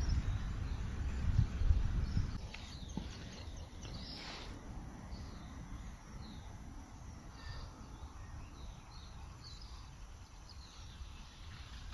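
Outdoor natural ambience: a low rumble for the first two seconds, then quieter, with short, scattered faint bird chirps.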